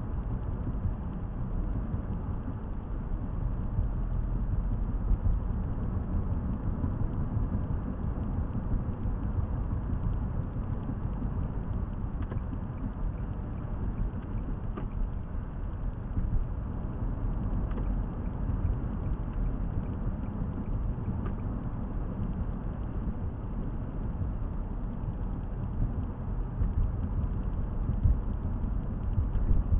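Steady low rumble of a car's engine and tyres heard from inside the cabin of a moving car, picked up by a dash camera's microphone.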